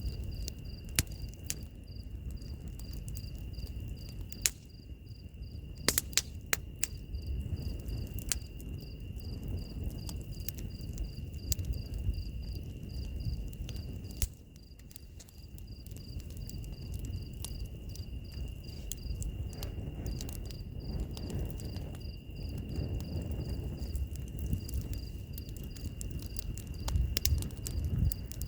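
Wood fire crackling, with sharp pops scattered through and a cluster of loud ones about six seconds in, over a low rumble of the flames. Crickets and other insects are heard throughout: a steady high trill, and a pulsing chirp about three times a second.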